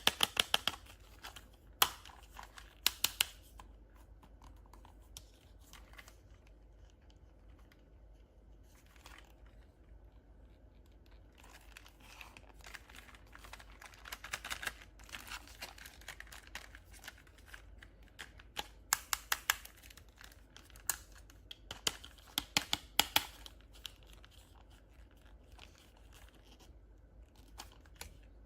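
Plastic toy packaging crinkling and being torn open, in clusters of sharp crackles separated by quieter pauses, with a longer stretch of rustling about halfway through.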